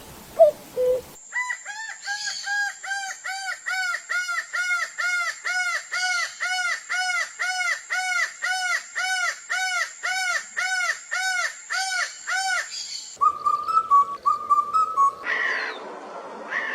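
Birds calling. A long, even series of repeated arched call notes comes about two to three times a second. Near the end it cuts to other birds' shorter trills and calls.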